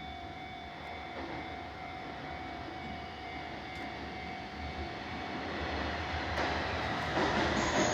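Nishitetsu 9000 series electric train, a steady whine with a low rumble that grows louder over the last couple of seconds.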